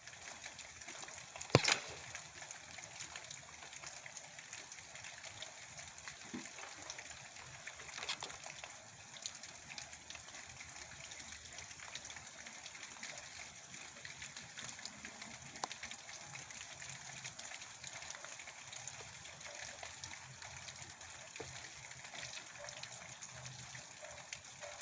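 Steady rain falling, an even hiss with a few sharp taps on top, the loudest about a second and a half in.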